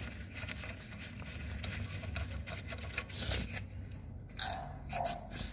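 A loosened nut being turned off the threaded stud of a car's sway bar end link, with faint scraping and clicking of metal on the threads.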